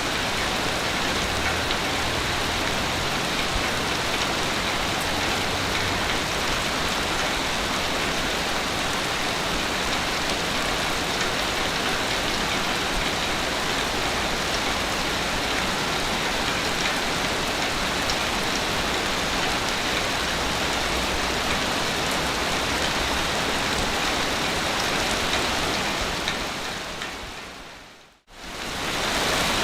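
Steady, even hiss of waves breaking on a beach, with no swell in loudness. Near the end it fades down to silence and swells straight back, where the recording loops.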